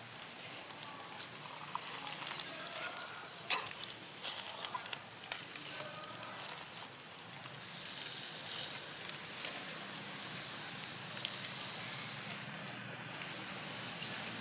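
Outdoor ambience of crackling, rustling noise with scattered sharp clicks, and a few faint short calls in the first half.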